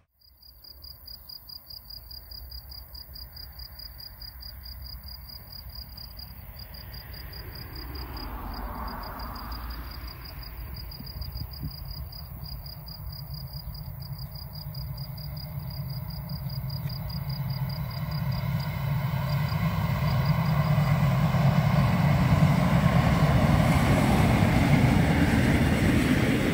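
A train approaching, its low rumble growing steadily louder over the last several seconds. Crickets chirp in a fast, even, high trill over the first part.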